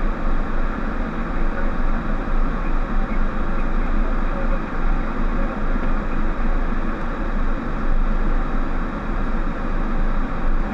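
Steady cockpit noise of a Boeing 737: a constant rumble of engines and airflow heard inside the flight deck.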